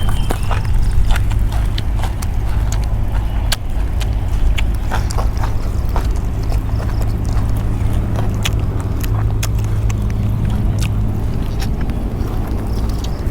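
Close-up chewing and biting of crunchy food: sharp, irregular clicks and crunches over a steady low rumble.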